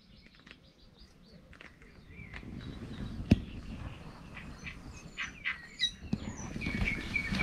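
Small birds chirping repeatedly, short high calls scattered throughout, over low rustling of handling, with a sharp knock about three seconds in.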